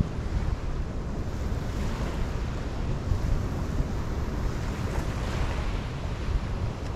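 Ocean surf washing on the shore, its hiss swelling twice as waves come in, with wind rumbling on the microphone underneath.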